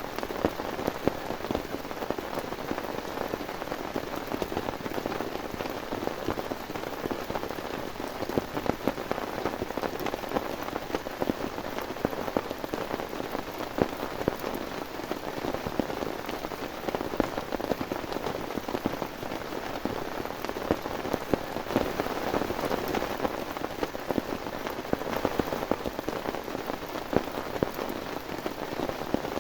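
Heavy rain falling steadily on a surface, with many sharp individual drop hits scattered throughout.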